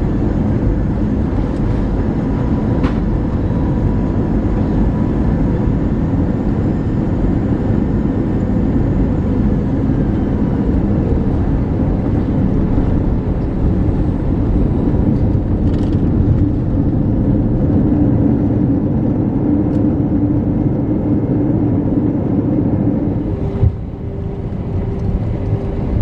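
Airbus A321 cabin noise on arrival: a loud, steady rumble of engines and airflow. About 23 s in there is a brief knock, the rumble drops a little, and a steady hum takes over.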